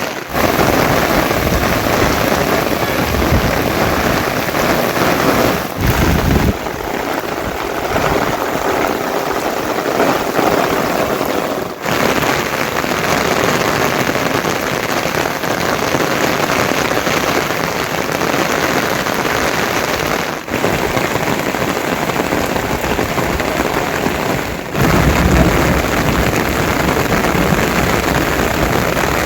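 Heavy monsoon rain falling: a dense, steady hiss of rain, whose character changes abruptly a few times.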